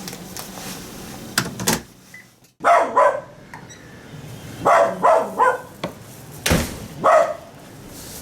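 A dog barking: about seven short barks in uneven groups, with a sharp knock about six and a half seconds in.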